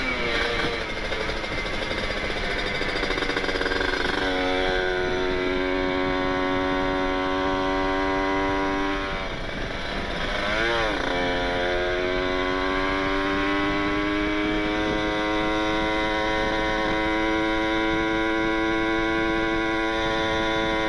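Kawasaki Ninja 150RR's two-stroke single-cylinder engine running through an Aitech carbon-kevlar aftermarket exhaust while riding. The engine note holds steady, then the revs drop and swing sharply about halfway through. After that they recover and climb slowly.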